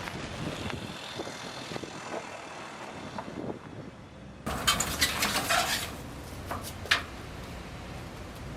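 Low background noise, then an abrupt change about halfway to louder clattering and knocking, with one sharp knock a little later.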